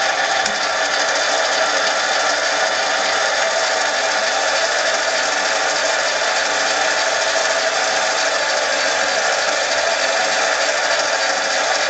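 Metal lathe running steadily while machining aluminum stock for trim rings, a continuous mechanical whir with several steady tones.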